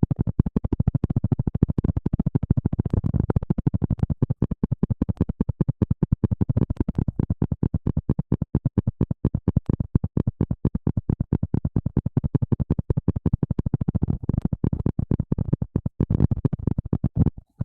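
Fast, even scratching or rubbing right on the microphone, about a dozen strokes a second, mostly low and thudding, of the kind made to mimic hair washing.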